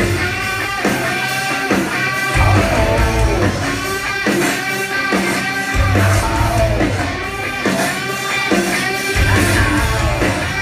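Live rock band playing loudly, electric guitar to the fore over bass and drums.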